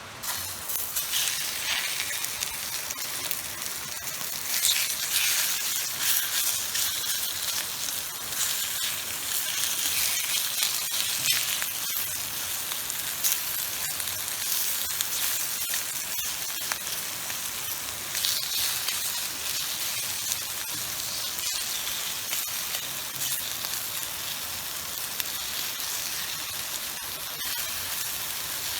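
Food sizzling and spitting in a hot pan over a wood-burning camp stove, a dense crackling hiss that starts suddenly and carries on with small flare-ups.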